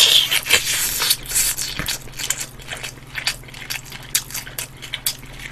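Biting into a sauced fried chicken drumstick (kkanpung chicken) close to the microphone, then chewing it. A loud tearing bite at the start, followed by irregular wet, crackly chewing clicks.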